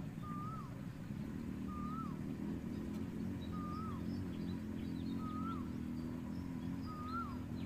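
A bird repeating a short call about every one and a half seconds, each a brief even note that jumps up and then drops sharply, with faint higher chirps from other birds. Under it runs a steady low hum.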